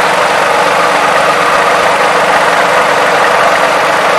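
2007 Toyota 3.5-litre V6 idling steadily, heard close up. It runs quietly, without the valve-timing clacking these engines are known for, which the owner credits to a graphene oil additive.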